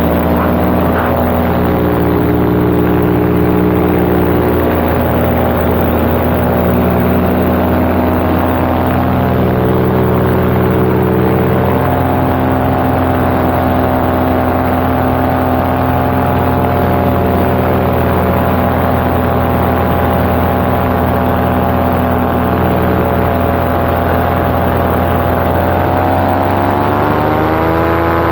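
Paramotor engine and propeller running steadily in flight, heard from the pilot's seat. The engine speed shifts a few times and rises near the end as the throttle is opened.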